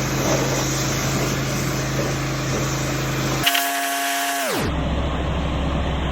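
Pressure washer running, a steady motor hum with spray hiss; about three and a half seconds in, its pitch slides down and holds at a lower, duller hum.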